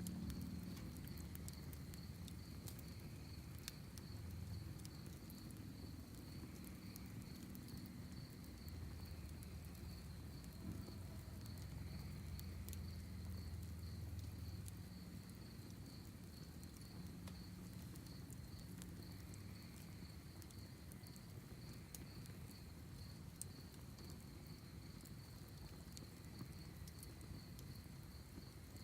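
Crickets chirping in a steady, high pulsing trill, with scattered crackles and pops from a wood fire in a fire pit and a low rumble underneath.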